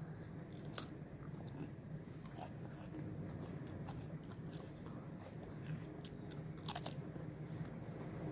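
A person eating chips close to the microphone: irregular crisp crunches while chewing, a few sharper bites standing out.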